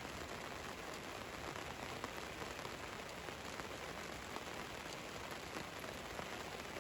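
Steady rain falling on a van: an even hiss with scattered single drops ticking.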